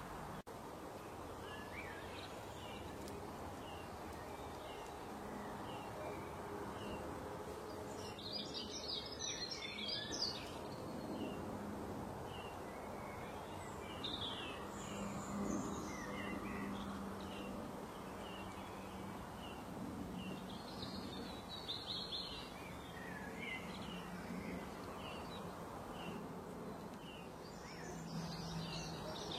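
Birds chirping in many short calls, busier in a few stretches, over a steady background noise with a low hum.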